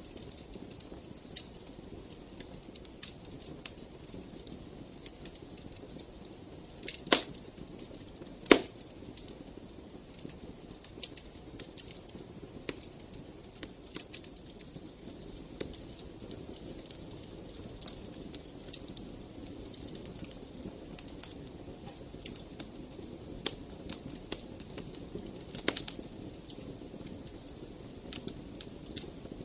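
Fire in a fireplace crackling: a steady low rush of flame with irregular sharp pops and snaps, the two loudest about seven and eight and a half seconds in.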